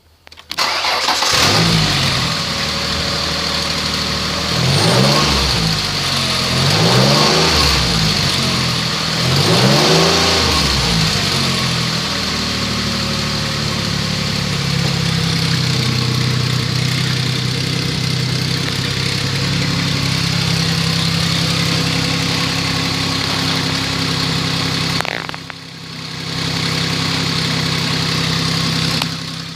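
2004 Ford Explorer engine starting about a second in, revved up and down three times, then settling into a steady idle. The sound drops away briefly near the end before the idle returns.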